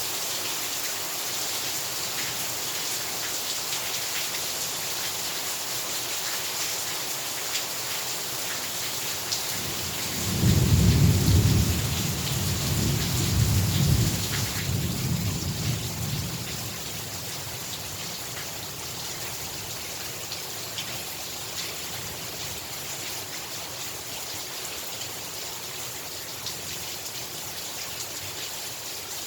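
Heavy rain falling steadily, with a rolling clap of thunder about ten seconds in that rumbles low and loud for several seconds, swells a second time, then dies away.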